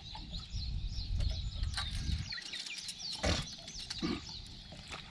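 Birds singing, a steady stream of short high chirps repeating throughout, over a low rumble.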